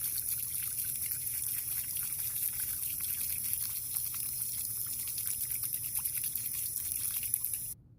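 Water running and trickling steadily with small splashes, then cutting off abruptly near the end.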